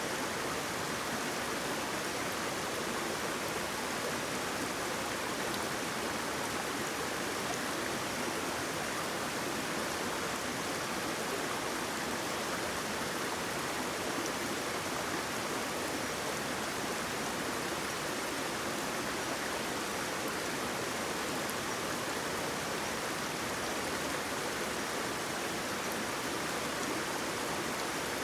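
Waterfall: water falling and rushing in an even, unbroken hiss that never rises or falls.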